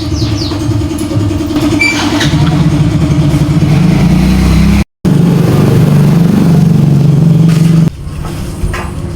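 Small motorcycle engine running, with the revs raised about two seconds in and held up, then dropping back near the end; a brief break in the sound comes about halfway through.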